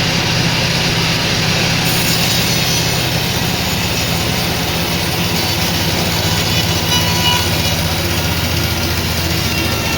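Sawmill machinery running steadily, a low motor hum under the noise of the saw, with a higher hiss joining about two seconds in.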